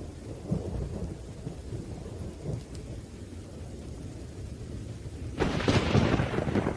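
Thunderstorm: low rolling thunder rumbles under steady rain, then a sharp, loud crack of thunder breaks out near the end and rumbles on.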